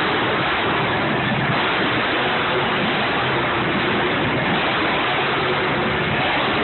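Loud, steady roar of monster truck engines, so dense that it blurs into an even wash of noise with no breaks.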